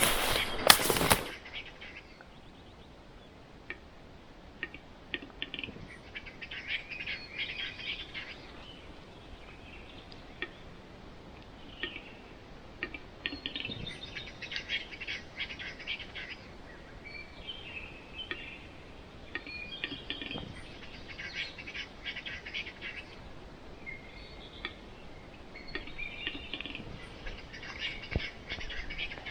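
A western capercaillie singing at its lek: scattered dry clicks, then short bursts of rapid scraping, the whetting phrase, repeating every six or seven seconds. A loud crackle in the first second.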